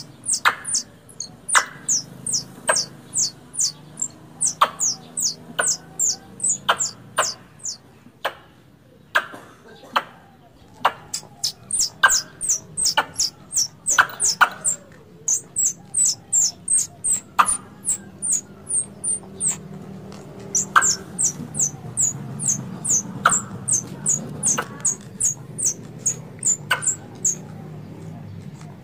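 Squirrel (bajing) calling: a long series of short, sharp, high chirps, each falling in pitch, about two to three a second, in runs broken by brief pauses, over a faint low hum.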